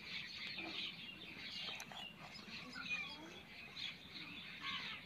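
Faint bird calls: scattered short chirps and calls from several birds, with no single loud event.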